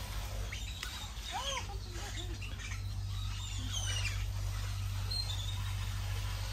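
Birds chirping, with short arching calls and quick high chirps at scattered moments, over a steady low hum.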